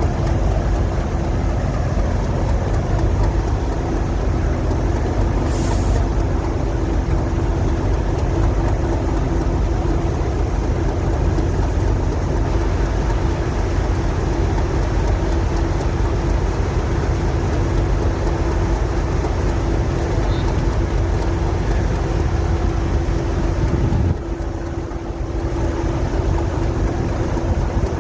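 A train at the station running with a steady low rumble and a held hum, easing off slightly about 24 seconds in. A brief sharp high noise comes about six seconds in.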